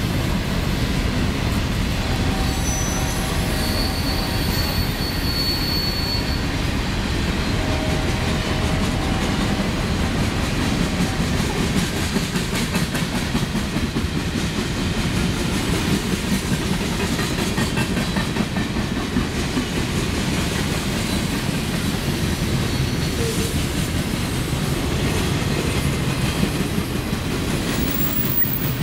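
Freight cars of a passing train rolling by: a steady rumble of steel wheels on rail with the clickety-clack of wheels over the rail joints.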